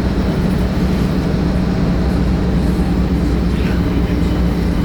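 Vintage Swedish railbus under way, heard inside the passenger cabin: a steady low drone of its diesel engine and the wheels on the rails.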